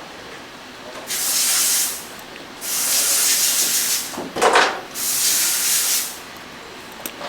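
Compressed air hissing out in three blasts of about a second each, with a short, lower rushing sound between the second and third.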